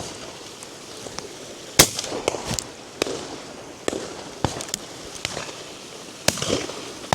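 Shotgun fire on a driven game shoot: scattered single shots from several guns, a loud close shot about two seconds in, then more shots at irregular intervals, some fainter and farther off.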